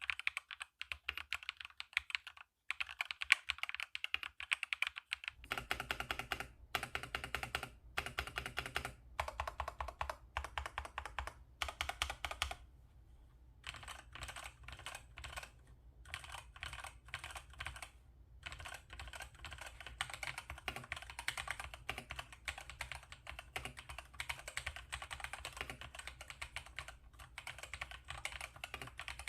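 Typing on an LT84 wireless mechanical keyboard: a fast, continuous patter of key clicks with a brief pause about halfway through. A low steady hum sits beneath it from about five seconds in.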